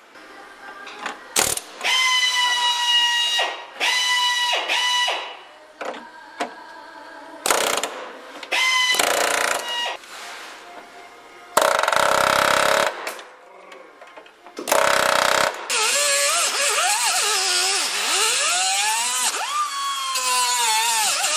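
A handheld power tool working on body metal in repeated bursts. It gives a high, steady whine, and later the pitch dips and recovers as the tool is loaded. Short harsh noisy blasts come in between.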